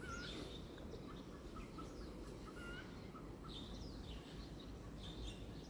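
Birds chirping and calling, many short notes one after another, over a low steady background noise.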